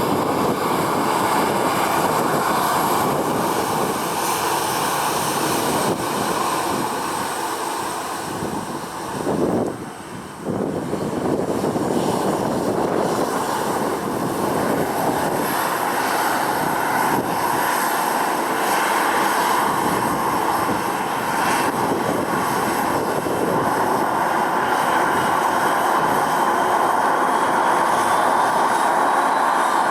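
Jet2 Boeing 737-800's CFM56-7B turbofan engines running close by with a steady, loud jet noise. A faint rising whine enters near the end.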